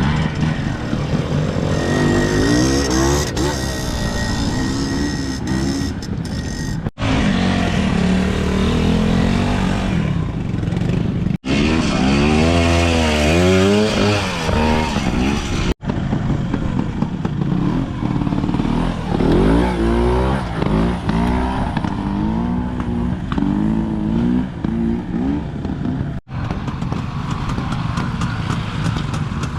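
Classic trials motorcycles picking their way through an off-road section, their engines revving up and down in short bursts as the throttle is blipped over obstacles. The sound cuts abruptly four times as one rider's run gives way to the next.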